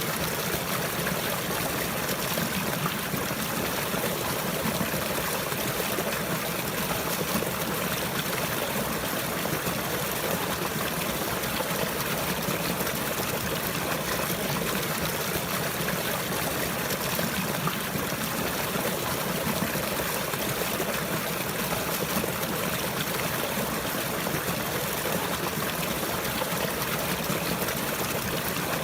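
Water trickling and flowing steadily and evenly, with no change in level.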